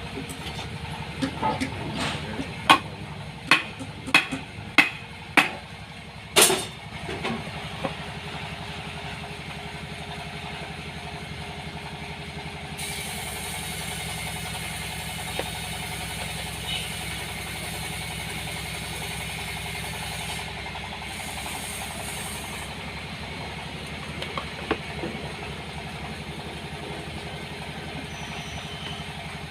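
An engine running steadily. In the first several seconds there is a row of sharp knocks about one every two thirds of a second, and a hiss joins about halfway through.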